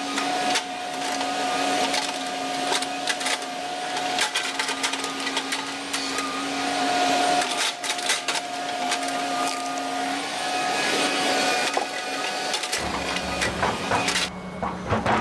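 Volvo ECR145 excavator running under load, with a steady hydraulic whine and many sharp cracks and snaps of wood and brush breaking. Near the end the sound shifts to a lower engine rumble.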